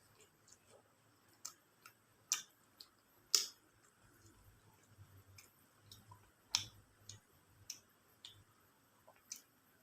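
Eating sounds: irregular sharp mouth clicks and smacks while chewing chicken biryani, a few louder ones standing out.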